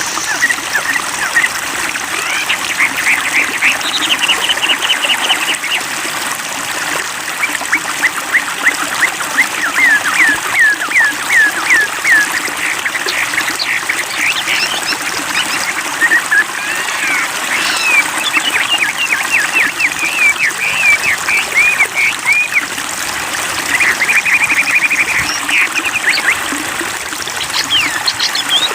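Wambi bird calling in long phrases of rapid, repeated sweeping notes, over the steady rush and trickle of a stream.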